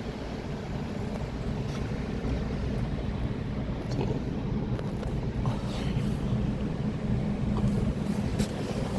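A car engine running with a steady low hum, slowly getting louder, with a few faint ticks.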